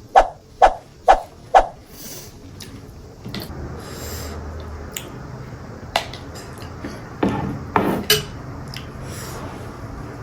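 Dishes and cutlery clattering: four quick, loud knocks in the first two seconds, then quieter scraping with a few more clicks and knocks later on.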